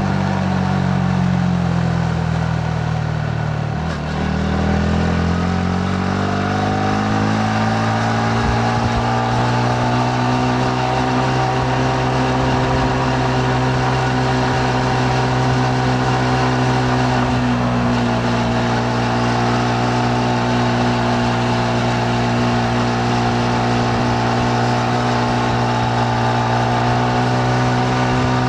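Yamaha MT-15's 155 cc single-cylinder engine heard while riding: revs falling for the first few seconds, a brief dip about four seconds in, then climbing and settling into a steady pull. There is a short break in the engine note about two-thirds of the way through, over a steady rush of wind and road noise.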